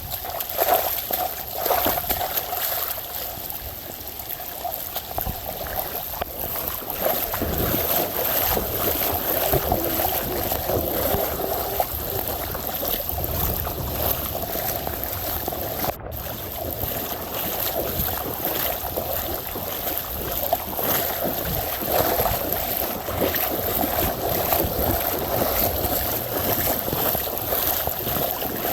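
Floodwater running through a flooded street, a steady rushing and trickling with small splashes, briefly cut off about halfway through.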